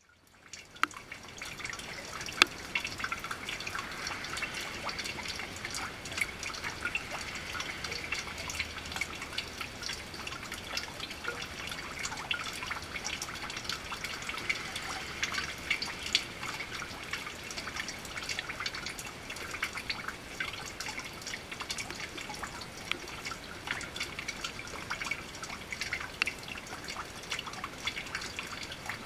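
Rain dripping and pattering steadily, a dense run of small irregular drips.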